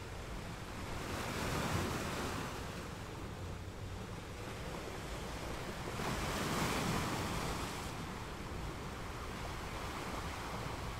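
Atlantic sea waves washing, surging twice, about two seconds in and again around six to seven seconds in, with wind rumbling on the microphone.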